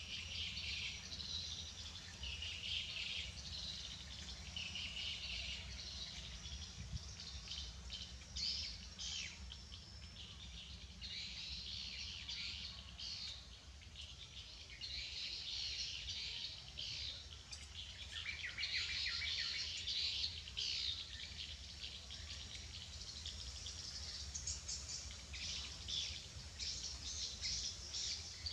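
Small birds chirping and calling in repeated bursts, busiest around the middle and latter part, over a steady low hum.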